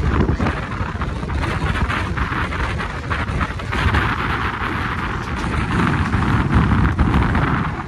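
Mangalore–Coimbatore Intercity Express passenger train running at speed: a steady rumble of wheels on the track with many short clicks, and wind buffeting the microphone. A rushing hiss grows louder about four seconds in.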